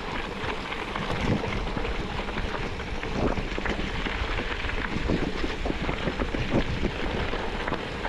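Vehicle travelling over a rough road: a steady rumble with scattered knocks and rattles, and wind on the microphone.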